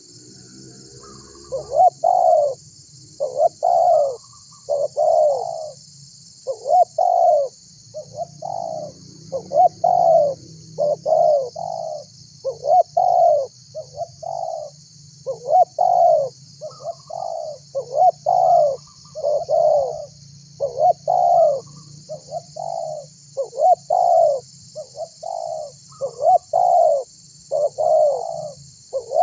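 Spotted dove (tekukur) cooing over and over, a continuous run of short coos, each rising then falling in pitch, with brief pauses between groups of notes.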